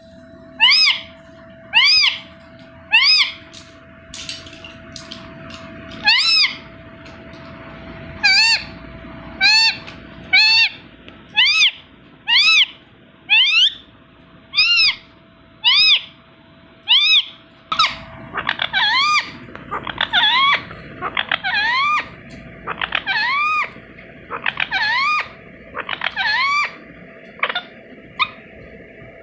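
Indian ringneck parakeet giving loud, repeated shrill calls, each a short note that rises and falls, about one a second. From about two-thirds of the way through, the calls come quicker, in pairs and short runs.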